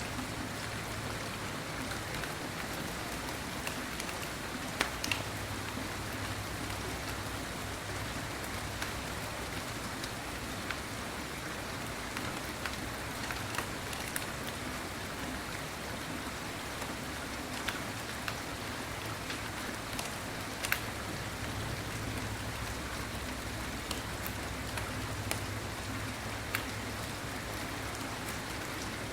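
Steady rain falling, with single louder drops ticking now and then.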